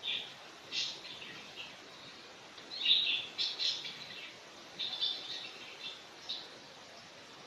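Birds chirping in short bursts of high notes, several times, over a steady quiet background.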